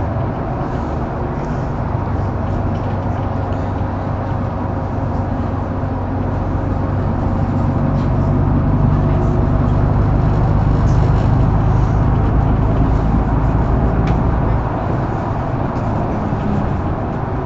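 Mercedes-Benz O530 Citaro facelift intercity bus heard from inside while driving: a steady diesel engine drone with road noise. It grows louder about halfway through, as if the engine is pulling harder, and drops back suddenly about two-thirds of the way in.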